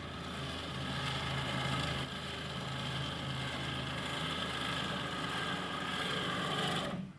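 An engine running steadily, then cutting off abruptly near the end.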